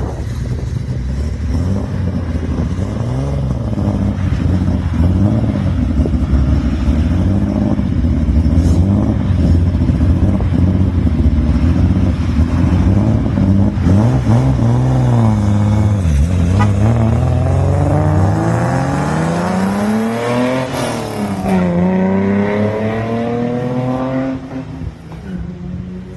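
Classic Nissan L-series straight-six engines revving in short up-and-down blips. Then one car accelerates hard: its pitch climbs steeply, drops at a gear change about two-thirds through, climbs again, and fades as it pulls away.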